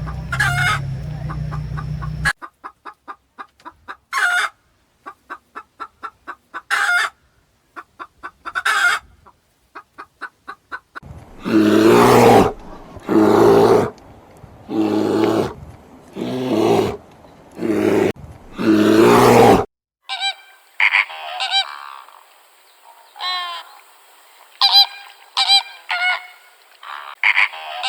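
Farm poultry calling. First come quick runs of rapid clucking-like pulses, then about seven loud honking calls, each about a second long. In the last third come lighter, high chirping bird calls.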